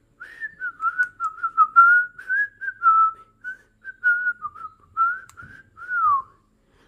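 A whistled tune: a single clear tone hopping between short notes for about six seconds and ending on a falling glide.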